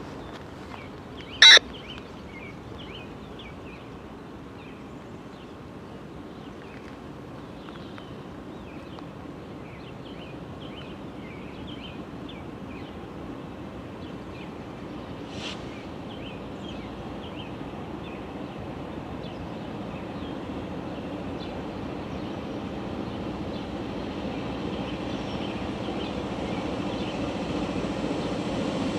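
A freight train's diesel locomotives approaching from a distance: a low rumble that grows steadily louder, with birds chirping throughout. A brief loud blip about a second and a half in.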